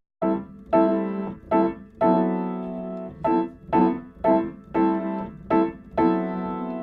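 Keyboard music on the soundtrack, piano-like: after a brief silence, a series of chords struck one after another at about two a second, each fading before the next.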